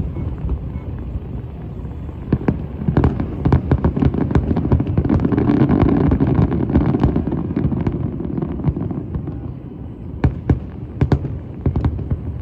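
Fireworks going off: a rapid run of sharp pops and bangs over a continuous low rumble, thickest in the middle, with a few separate loud bangs near the end.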